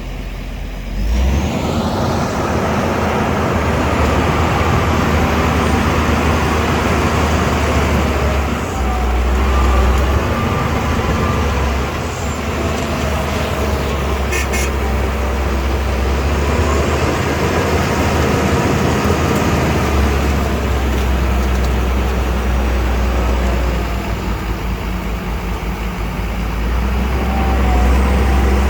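Shantui DH17 C2 bulldozer's diesel engine working, a heavy steady drone that swells and eases several times. It comes in sharply about a second in, and there is a short sharp clank about halfway through.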